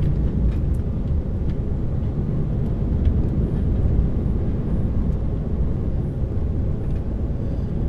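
Diesel lorry engine and road noise heard from inside the cab while driving: a steady low rumble with a few faint ticks.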